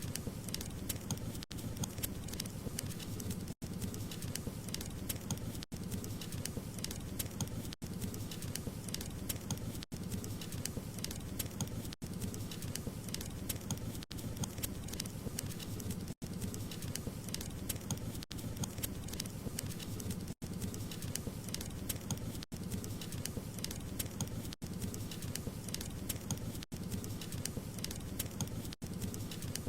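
Wood fire crackling: many small sharp pops and snaps over a steady low rushing, with a brief dropout about every two seconds.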